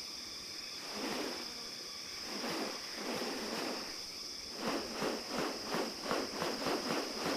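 Rainforest insects keeping up a steady high-pitched drone. Over it come a few harsh rasping sounds, then a quick run of about four a second in the second half.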